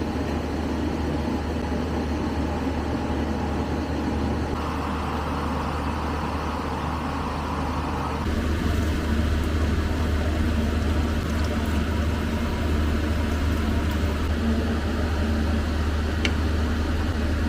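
Steady road-vehicle rumble and road noise, with a low drone. The sound shifts about eight seconds in, when the low rumble grows a little louder.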